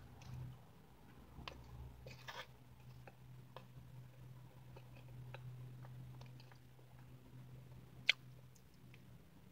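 Soft chewing and mouth sounds of a person eating frosted cupcake with a plastic spoon, with scattered small clicks and one sharp click near the end, over a low steady hum.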